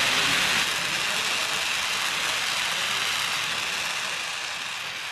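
Oxy-butane brazing torch flame hissing steadily, a little quieter after about half a second and fading out near the end.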